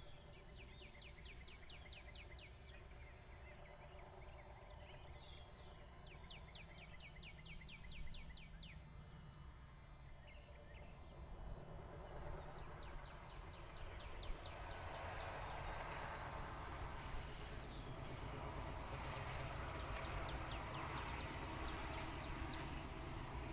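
A small songbird singing a rapid trill of quick falling notes, about nine notes a second, repeated four times with pauses of a few seconds between. A steady background hiss grows louder through the second half.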